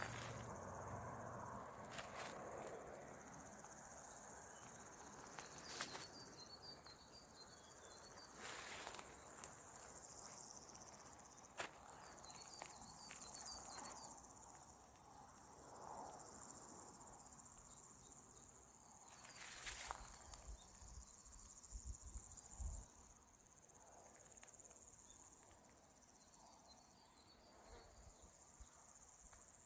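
Faint, steady, high-pitched insect chorus, with a few brief high chirps and scattered soft clicks.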